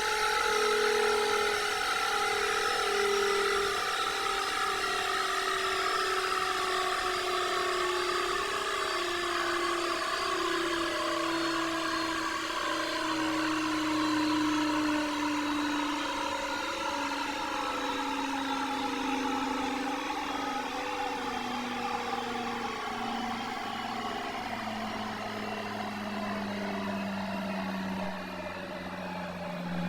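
Candy washing machine spinning down, its motor whine falling slowly and steadily in pitch as the drum loses speed, over a steady rushing hiss.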